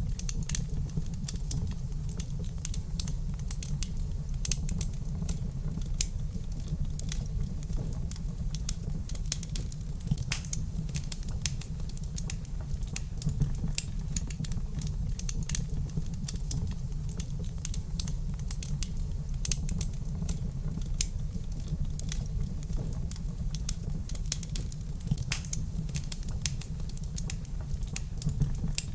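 Wood fire crackling in a fireplace: irregular sharp crackles and pops, some louder than others, over a steady low rumble.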